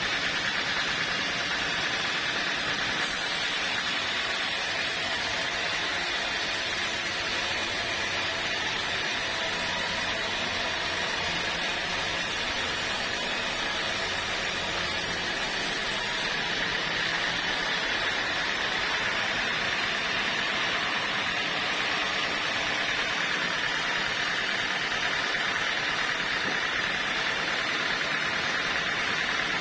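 Sawmill machinery running steadily: a continuous noise with a faint steady whine over it.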